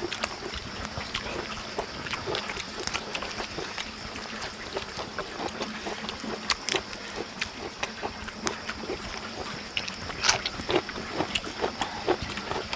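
People eating: chewing and lip-smacking in many short, irregular clicks and smacks, with no talk.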